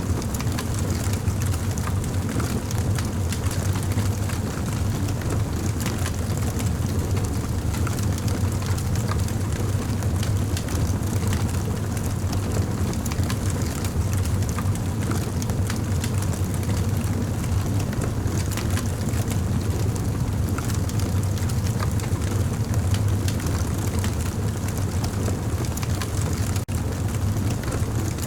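Campfire burning with a steady low rumble and many small crackles and pops scattered throughout.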